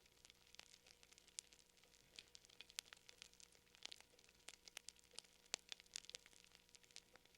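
Wood fire crackling faintly, with irregular sharp pops and snaps several times a second over a faint steady hum.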